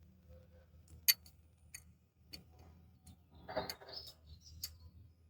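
A few separate sharp metallic clicks, the loudest about a second in, and a short scraping rustle a little past the middle, from tools and parts being handled on an engine, over a steady low electrical hum.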